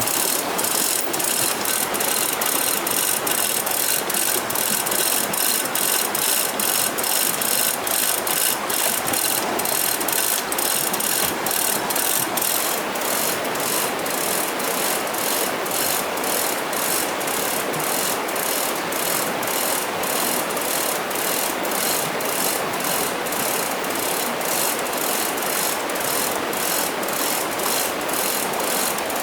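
Steady mechanical clicking, about two to three clicks a second and a little faster later on, over a constant rushing noise.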